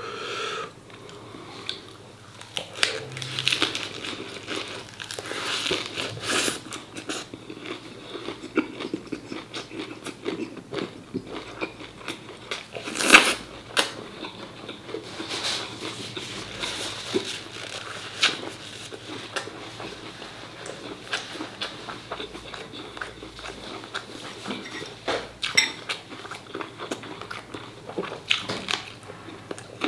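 A person chewing and biting braised pork offal (phá lấu), close to the microphone, with irregular mouth and teeth clicks and one louder sharp crunch about thirteen seconds in.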